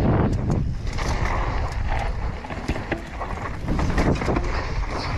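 Mountain bike riding fast over rough ground: wind buffeting the microphone, with the tyres and bike rattling and knocking over the bumps.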